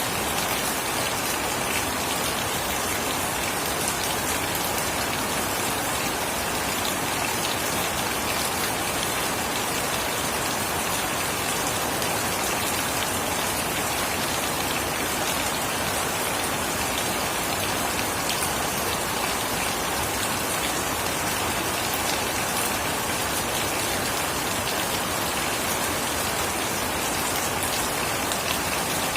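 Steady rain falling and pattering on surfaces, an even, unbroken hiss with no thunder.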